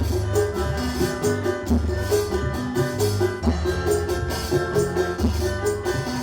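Nada dan sholawat group playing instrumental music through a sound system: a steady beat of hand percussion over deep bass notes, with a held melody line above.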